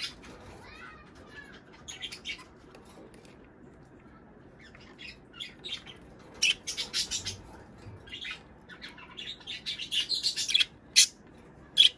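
Budgerigars chirping and squawking in quick, sharp bursts, sparse at first and growing into a busy chatter in the second half.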